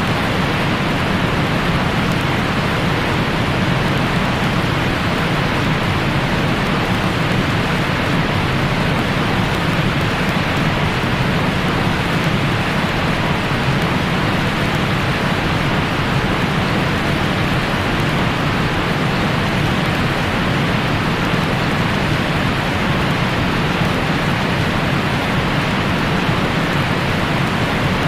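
Steady, unchanging rain-like hiss: a continuous noise track, strongest in the low and middle range and dull at the top, used as white noise to lull newborns to sleep.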